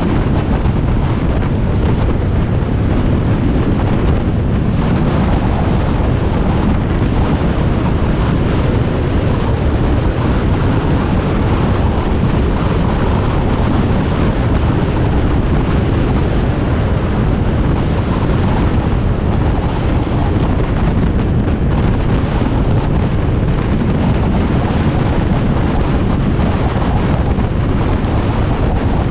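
Wind blasting over the microphone on a Harley-Davidson Iron 1200 at cruising speed, with the 1200 cc V-twin running steadily underneath. It is loud and constant, with no gear changes or revving.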